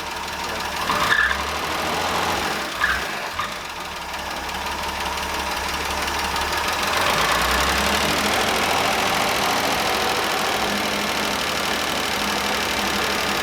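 Willys Jeep engine running, growing louder from about four to seven seconds in and then holding steady.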